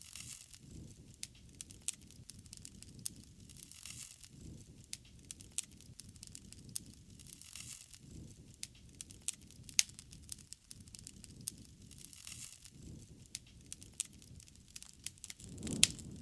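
Wood fire burning, crackling and popping irregularly over a low rush of flame, with a louder flare-up of popping near the end.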